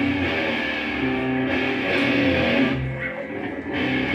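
Loud distorted electric guitar chords, each held for a second or so before moving to the next.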